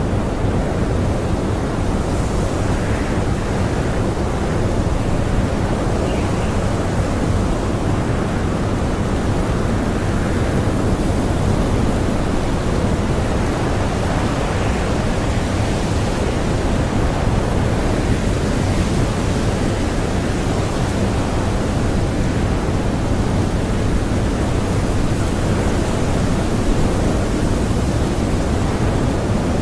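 Howling blizzard wind: a steady, heavy rush of noise, with fainter higher gusts swelling and fading now and then.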